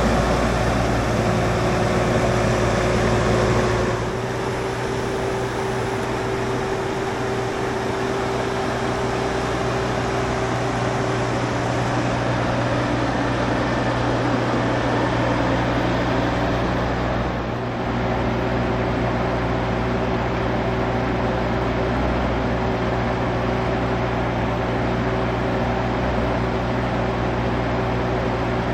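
Stihl MS661 chainsaw on a chainsaw mill running steadily at high revs while ripping a maple log into lumber. It drops slightly in level about four seconds in and dips briefly past the middle.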